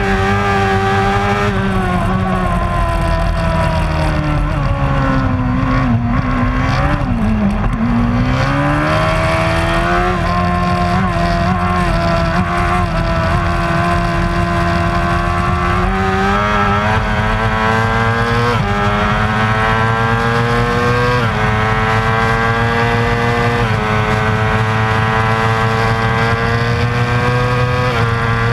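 Racing superbike engine at high revs. It drops in pitch as the bike slows about a quarter of the way in, then climbs again through a series of upshifts, the pitch falling sharply at each gear change.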